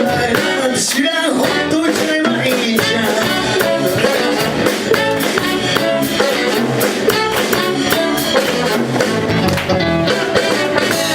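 Band music played live, guitar-led, with a steady beat.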